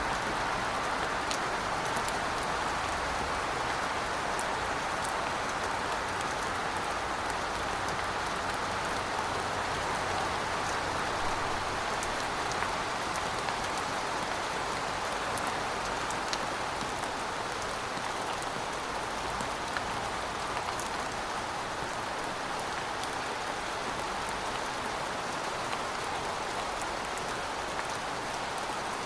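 Steady heavy rain falling, an even hiss with scattered sharper drops ticking through it.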